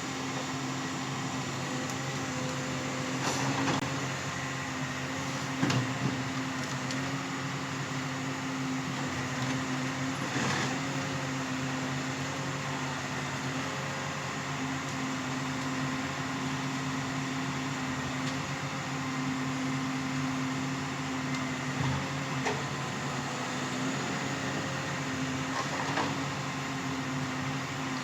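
Forestry harvester's diesel engine running at steady revs, with a few short knocks and cracks of wood or machinery spread through.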